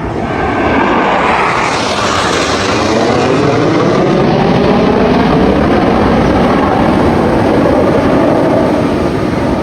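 Blue Angels F/A-18 Super Hornet jet noise as the jets pass, swelling about a second in and then holding loud and steady, with slowly sweeping tones through the roar.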